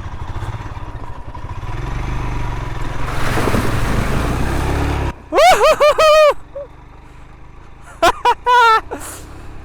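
Royal Enfield Himalayan 411's single-cylinder engine and wind noise while riding, a steady low rumble that rises slightly over the first five seconds, then cuts off abruptly. Loud, high-pitched, wavering calls follow, one run of several and another later.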